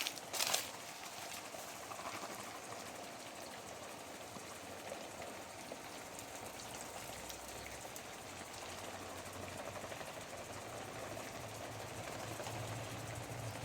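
Garden sprinkler spraying water, a steady hiss and patter. A low engine hum comes in and grows during the second half.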